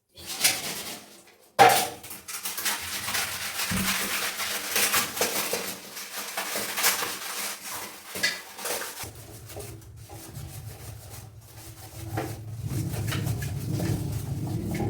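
Hard objects clattering and scraping as they are handled, with a sharp knock about a second and a half in. A low steady hum comes in about nine seconds in and grows louder toward the end.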